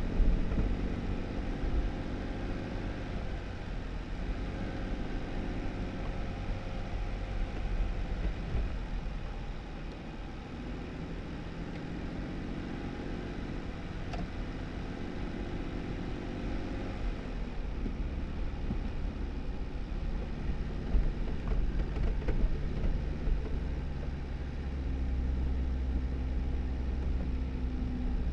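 2018 Jeep Wrangler driving on a snow-covered dirt road: a steady engine drone with tyre noise underneath, the engine pitch easing up and down a few times as speed changes.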